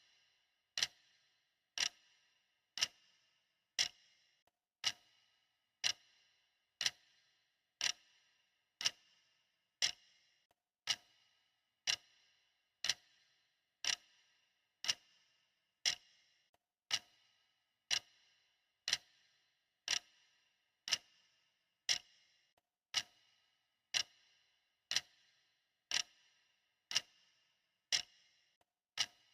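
Clock ticking steadily at about one tick per second, each tick a sharp click with a short ring.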